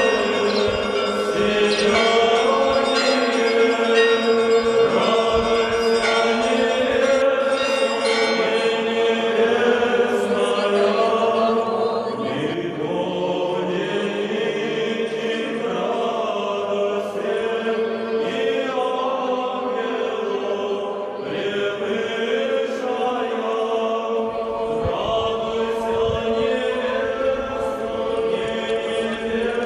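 Group of voices singing an Orthodox church chant, the melody moving over a steady held note.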